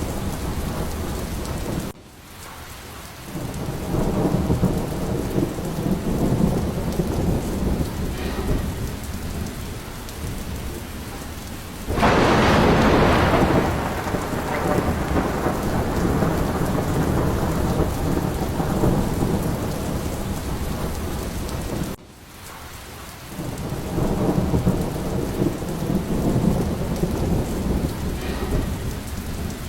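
Steady heavy rain with low rolling thunder. About twelve seconds in, a sharp thunderclap breaks out and fades away over several seconds. The sound drops away abruptly twice, about twenty seconds apart, before the rumble builds again.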